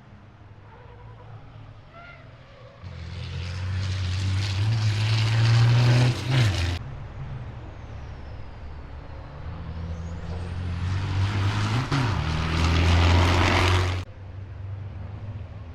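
Race trucks' turbodiesel engines at speed: one truck rises in pitch and is cut off after about three seconds, then a second one builds up with a rising whistle and hiss over it and cuts off abruptly.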